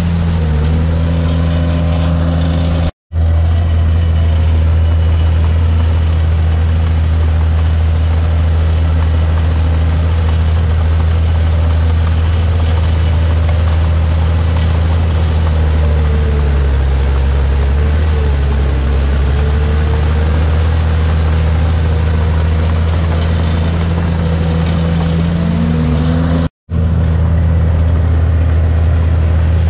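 Diesel engine of a Komatsu D51PX crawler bulldozer running steadily at working speed, its pitch dipping briefly about midway as if taking load. The sound cuts out for a split second twice, about three seconds in and near the end.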